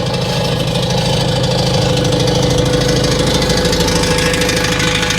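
Skid steer engine running steadily, with a pulsing low rumble and a steady whine over it.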